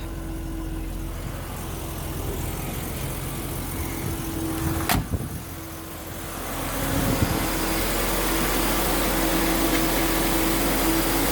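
Mercedes-Benz 300GE's straight-six engine idling steadily while still cold. A single sharp click comes about five seconds in, and the engine sound grows louder from about halfway through.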